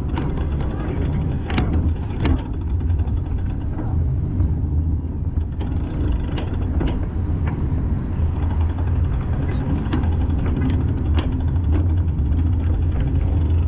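Car in slow traffic, heard as a steady low rumble with scattered short clicks and knocks.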